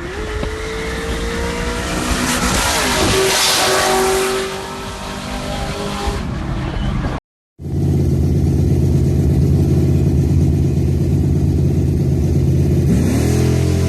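Squarebody Chevy truck engine revving hard, its pitch climbing, with a loud rush of noise partway through; after an abrupt cut, a second truck's engine runs with a deep, steady tone and revs up near the end.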